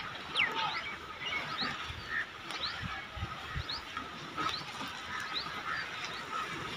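Small birds chirping: short, high, quickly rising calls repeated about once or twice a second, with a few soft low thumps midway.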